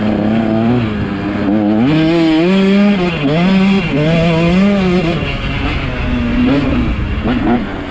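Motocross dirt bike engine revving up and down with the throttle while riding a lap, its pitch rising and falling every second or so as it accelerates and backs off.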